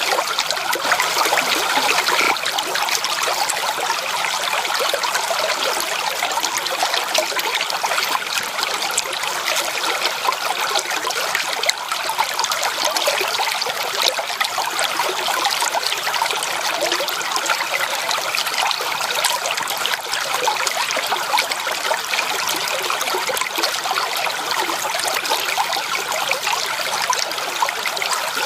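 Running water of a stream or small waterfall: a steady rush with a dense patter of small splashes.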